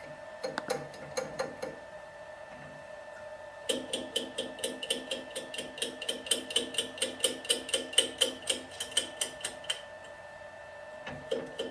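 Rapid, even ticking at about six a second in runs that start and stop, over a steady faint hum: the lathe cutter catching high spots on the rough wooden snare drum shell as the shell is spun to set the depth of the first cut.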